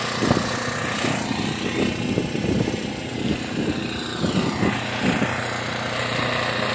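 An engine running steadily, with irregular short crunching knocks over it.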